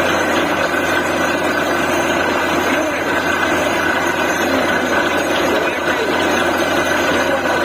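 DTH borewell drilling rig running steadily: a loud, even machine drone with a faint steady whine.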